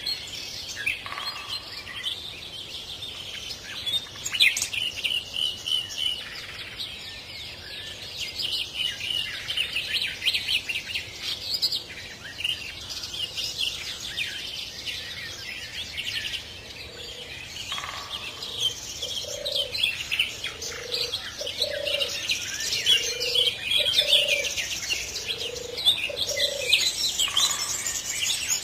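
Birdsong: many small birds chirping and twittering without pause, and in the second half a lower bird call repeated again and again.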